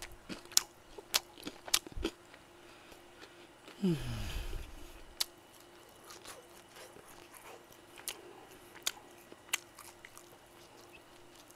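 Close-miked crunching and chewing of crispy fried chicken, with sharp crunches scattered through. About four seconds in there is a brief, louder low sound that falls in pitch.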